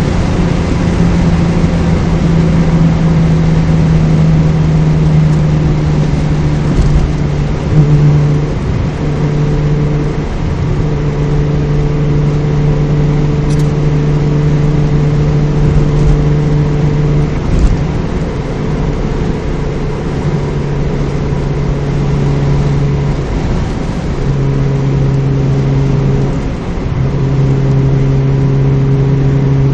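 Mazda MX-3 V6 engine and aftermarket exhaust, a 2 1/4-inch system with a test pipe in place of the catalytic converter and a Magnaflow Street Series muffler, heard from inside the cabin while driving. The exhaust drones steadily on one low note, which breaks and settles at a slightly different pitch a few times.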